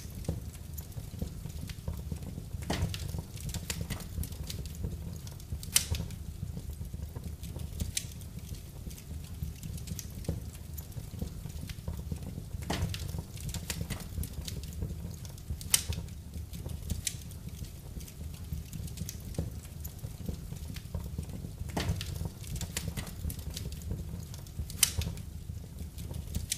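Wood fire in a fireplace crackling, with a sharp pop every few seconds over a steady low rumble.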